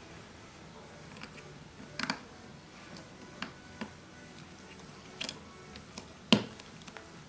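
A few sharp small clicks and taps of handling a phone and small repair tools, a double click about two seconds in and the loudest about six seconds in, over faint background music.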